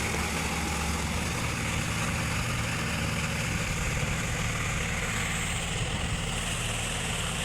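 John Deere tractor's diesel engine running steadily under load, driving a Shaktiman rotavator that churns a flooded paddy field for puddling.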